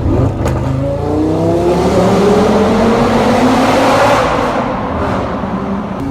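Lamborghini engine revving up as the car accelerates hard, its note climbing steadily for about three seconds, with a rising rush of air and road noise that peaks and then eases off.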